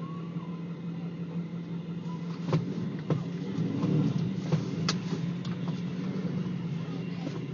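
A motor vehicle's engine running steadily, with several sharp knocks and clicks over it.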